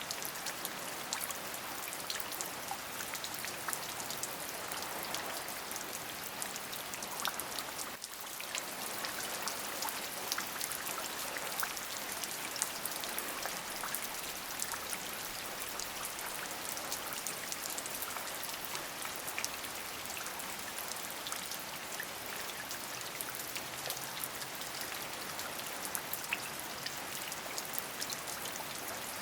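Steady rain, a dense hiss of falling water with many small, sharp individual drop ticks through it. It dips briefly about eight seconds in.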